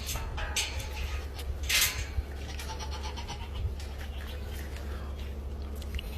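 An animal calling over a steady low hum, with a short burst of hiss just before two seconds in.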